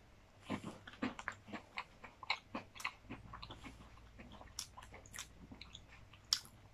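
Two people biting into and chewing dry shortbread biscuits: a run of faint, irregular crunches and mouth clicks.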